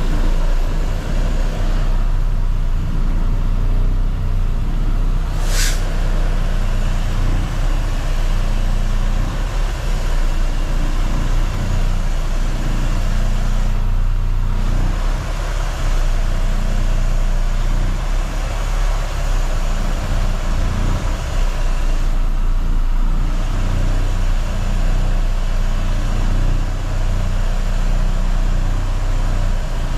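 Semi truck's diesel engine running steadily, with small shifts in engine speed. A brief sharp hiss about five and a half seconds in.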